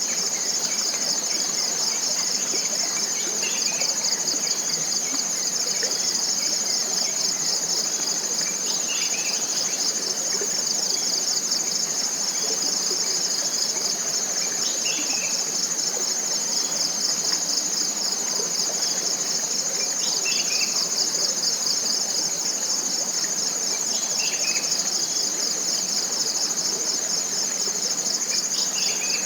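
Forest insect chorus: a loud, steady, high-pitched pulsing buzz that never lets up. Short bird calls break in every few seconds over a soft background hiss.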